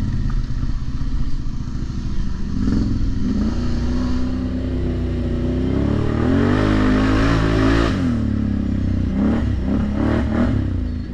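ATV engine running under throttle: its pitch climbs steadily for several seconds, peaks, drops back, then gives two short blips of revs near the end.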